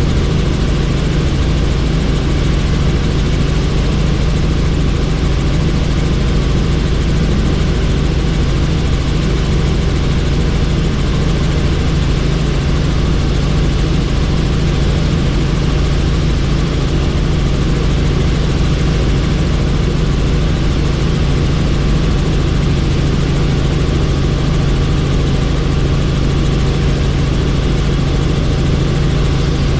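Helicopter engine and rotor noise heard from on board with the doors off: a steady, loud drone with a constant low hum and rushing air, unchanging throughout.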